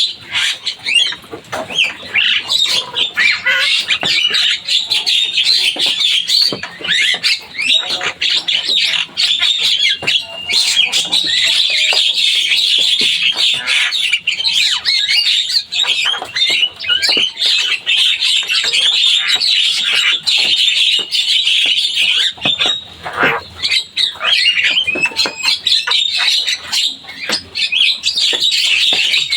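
Javan myna singing continuously, a dense, rapid stream of short chattering notes.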